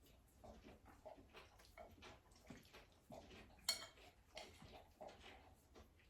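Faint, scattered clicks and taps of a utensil against a dish during eating, with one sharper click about midway.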